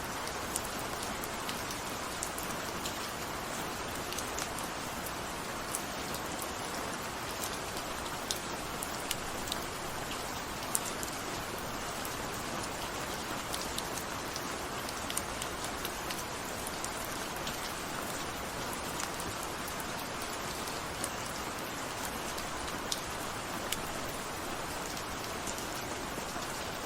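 Steady rain falling, an even hiss with scattered distinct drop ticks on a surface.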